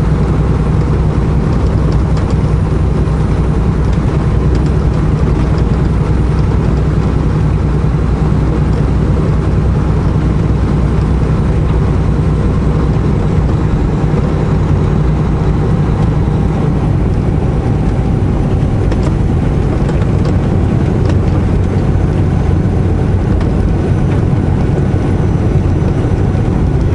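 Semi-truck diesel engine running steadily under way, heard from inside the cab, with a constant low hum and road noise.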